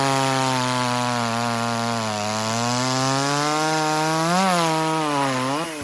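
Tanaka 5601 two-stroke chainsaw running at high revs while bucking a log, its engine note sagging under load and picking back up. Near the end the revs swing down and up sharply.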